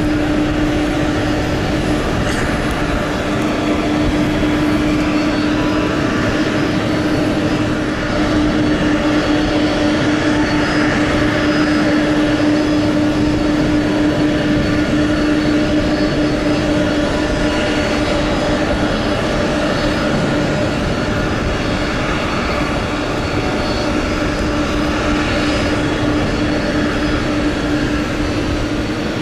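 Boeing KC-46A tanker's twin turbofan engines running at taxi power: a steady jet noise with a constant hum tone through it.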